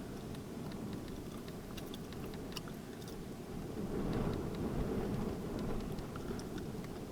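Strong wind buffeting the microphone: a low rumble that swells about four seconds in, with scattered faint ticks and crackles.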